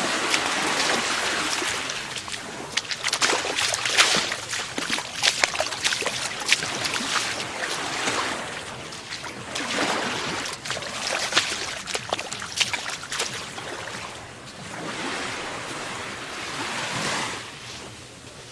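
Surf washing up on a sandy beach, swelling and fading every few seconds, with many small crackles through it.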